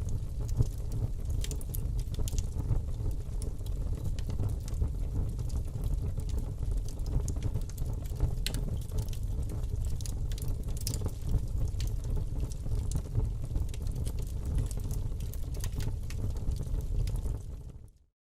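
Fire burning in a fireplace: a steady low rush of flames with frequent scattered crackles and pops. It fades out to silence near the end.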